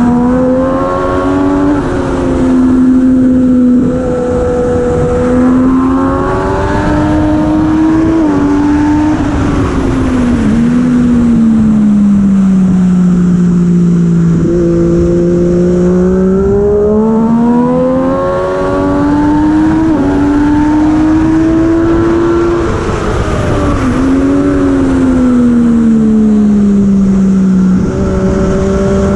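Heavyweight superbike engine at racing speed, climbing in pitch with small sudden steps as it shifts up through the gears. Several times it falls away in long slides down, under braking for corners, then climbs again. Throughout there is a steady rush of wind and road noise.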